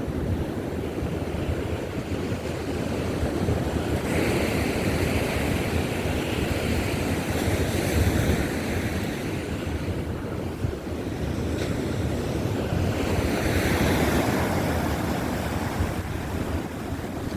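Baltic Sea waves breaking and washing up the beach, swelling twice, with wind buffeting the microphone.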